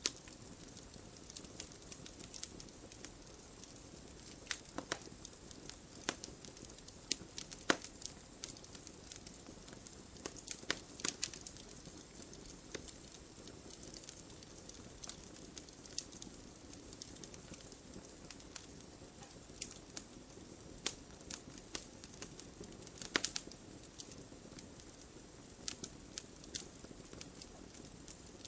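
Wood fire crackling: a steady low hiss with irregular sharp pops and snaps, a few of them louder than the rest.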